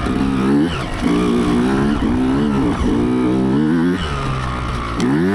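Dirt bike engine revving as it is ridden, the pitch repeatedly climbing and dropping with the throttle, about once a second.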